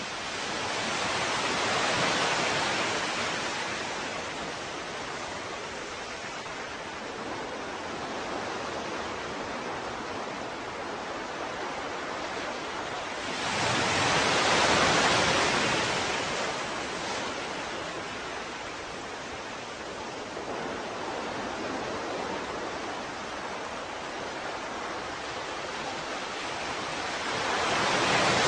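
Ocean waves washing ashore over a steady hiss of surf, with a wave swelling in and fading about every thirteen seconds: near the start, midway and at the end.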